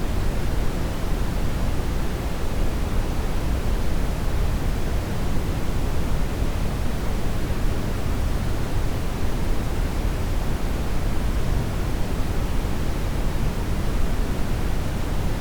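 Steady brown noise: a deep, even rushing hiss, heaviest in the low end, with no change or break.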